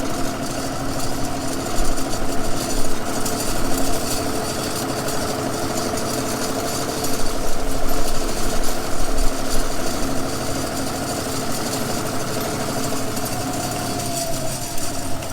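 Farm tractor engine running steadily while pulling a drag harrow, its pitch dipping slightly near the end. Wind gusts buffet the microphone a few times.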